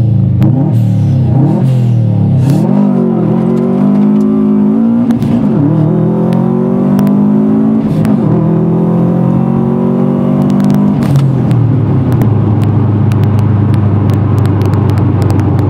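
Turbocharged flat-four of a Subaru Impreza WRX, with a decat downpipe and a Blitz Nur Spec R exhaust, launching hard and accelerating through the gears. The engine note climbs, drops back at three gear changes, then falls away to a steady lower drone near the end.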